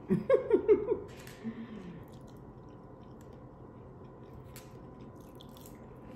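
A person chewing food quietly, with a few faint clicks, after a brief murmured vocal sound in the first second.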